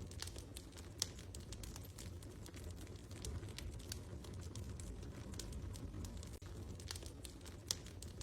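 Wood fire crackling in a fireplace: a low steady rumble with scattered small snaps, and two louder pops, about a second in and near the end.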